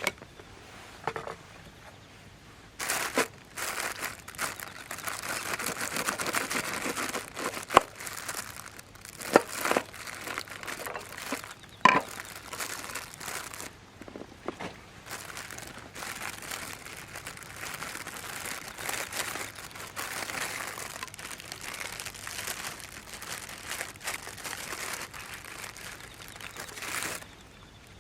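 Crinkling and rustling of something being handled, with a few sharp knocks in between, the loudest about 8 and 12 seconds in.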